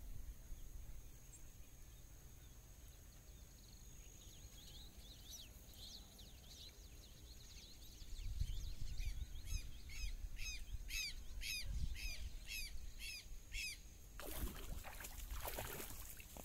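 A bird calling a long run of repeated sharp, falling notes, about two a second. It stops near the end and gives way to a brief splash as a small eel is hauled up out of the pond on a hand line.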